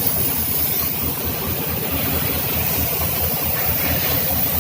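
An engine running at a steady idle with an even low throb, and a steady high hiss of compressed air from an air blow gun. The air is being blown over the truck's surface to clear dust before the top coat is sprayed.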